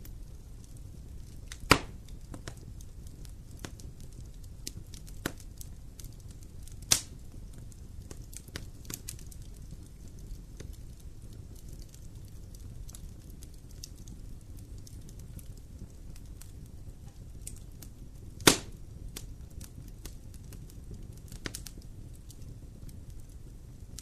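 Campfire burning with scattered small crackles over a steady low rumble, and three loud sharp pops spread through it.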